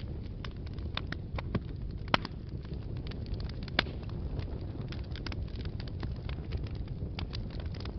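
Wood fire burning in a fireplace: a low steady rumble of flames with irregular crackles and pops, the two sharpest about two and four seconds in.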